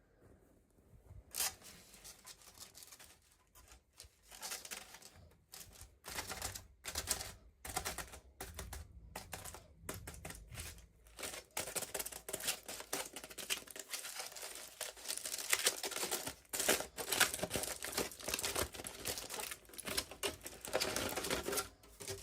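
Hands unboxing small plastic toys: a run of quick clicks and crinkles from packaging and little plastic pieces. It is sparse at first and becomes dense and continuous from about six seconds in.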